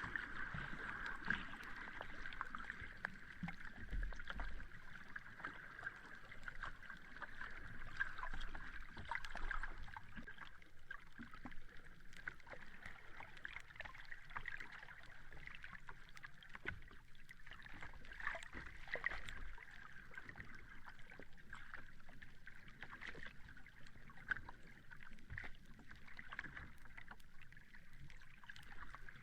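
Sea water washing and lapping at the shore, with a steady hiss and many small crackles running through it, swelling a little now and then.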